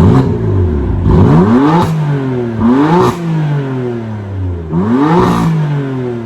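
BMW M4's S55 twin-turbo inline-six, fitted with resonated downpipes and a single mid pipe, revved hard in Sport Plus: a short blip, then three climbs in pitch at about two, three and five and a half seconds in, each falling back.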